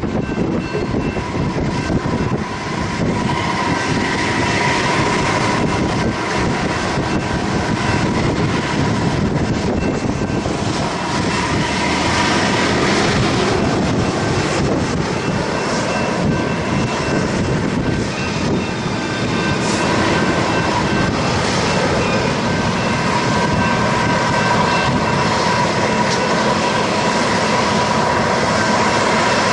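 Loaded rail train rolling past: steel wheels rumbling and clattering on the rails, with steady high ringing tones over it. The tail of the train is a Herzog rail-unloading machine and hi-rail truck.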